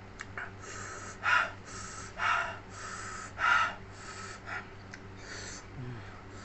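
A person breathing hard in and out through the mouth in a run of quick hissing breaths, the strongest three in the first half, as from the burn of very spicy chili sambal while eating.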